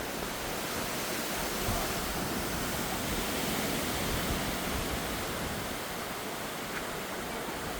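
Steady rushing noise of hurricane-force storm wind, swelling slightly in the middle.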